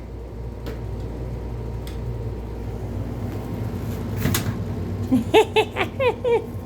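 A quick run of about six short, pitched chirping calls from an animal near the end, some gliding downward, over a steady low hum.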